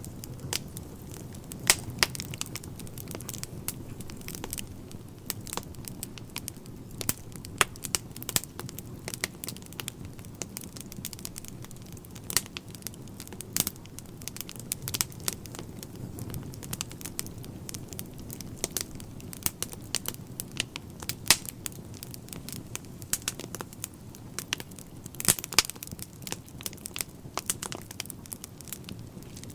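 Wood fire burning in a fireplace: a steady low rumble of flames with frequent irregular crackles and sharp pops from the burning logs, a quick cluster of louder pops near the end.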